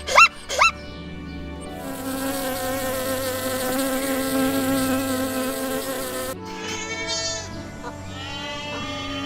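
A flying insect's wings buzzing loudly and steadily for several seconds. A few short rising-and-falling calls come just before it, and wavering, warbling tones follow once it stops.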